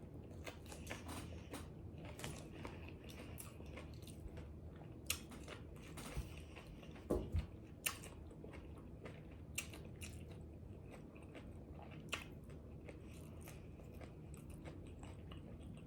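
A person chewing and biting into crunchy pizza tacos with crisp round taco shells: soft crunching and mouth clicks throughout, with a few sharper crunches about five to eight seconds in and another near twelve seconds.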